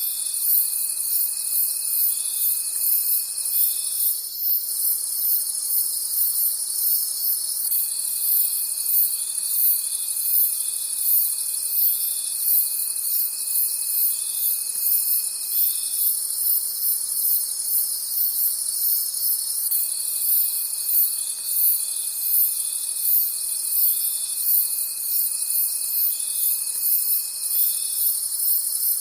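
Crickets chirping at night in a dense, evenly pulsing chorus. A thinner steady trill lower in pitch drops out twice and comes back each time.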